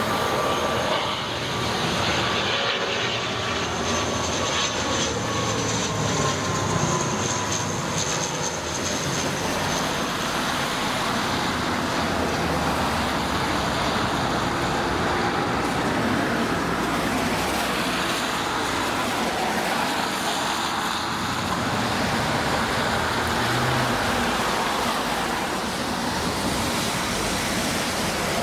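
Jet airliner engines running as a steady, broad roar. A high whine sounds over the first several seconds, alongside a tone that falls slowly in pitch.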